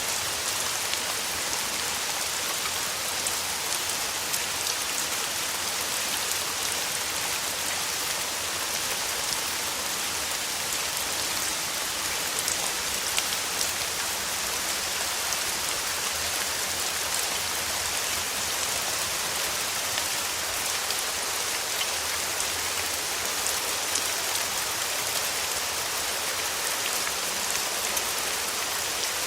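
Steady rain falling: a dense, even hiss with scattered sharp drop ticks, unchanging throughout.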